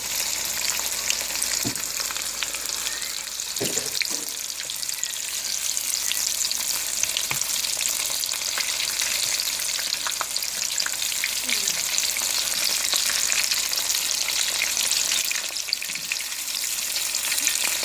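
Panko-breaded chicken breast pieces shallow-frying in hot oil in a frying pan: a steady sizzle with a few faint clicks.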